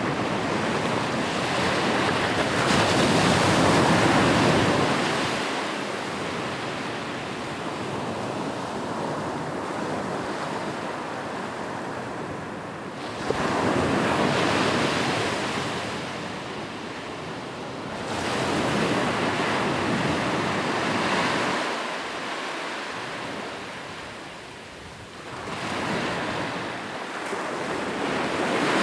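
Sea waves breaking on a shore, a steady wash of surf that swells and eases as each wave comes in, about four or five surges.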